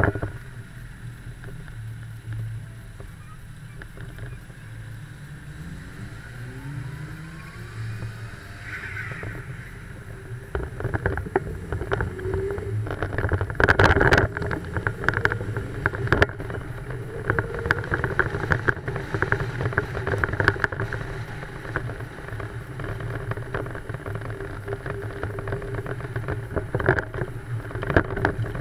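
An old car's engine and road noise heard from inside the cabin while driving. A steady low drone grows louder about ten seconds in, with scattered knocks and rattles.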